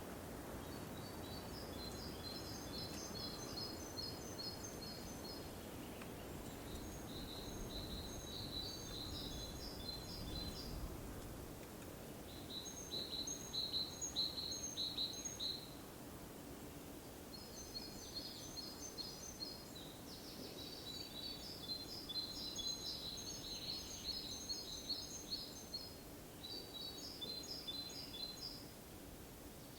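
A small songbird singing in repeated phrases of rapid, high notes, each phrase two to three seconds long, with short pauses between them, about seven phrases in all, over faint low background noise.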